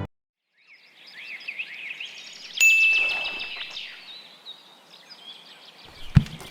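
Birds chirping in many short rising and falling calls, with a single bright ding about two and a half seconds in that rings on for about a second. A low thump comes near the end.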